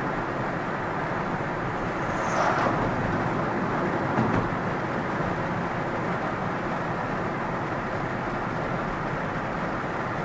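Car driving on the road, heard from inside the cabin: steady tyre and road noise, with another vehicle rushing past about two seconds in and a brief bump about four seconds in.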